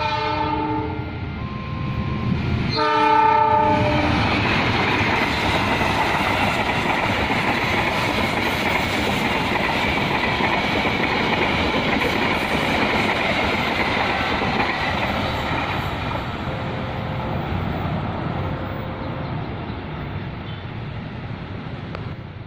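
Passenger train sounding two short horn blasts, the first right at the start and the second about three seconds in, then passing close by with a steady rush of wheel and rail noise that fades away near the end.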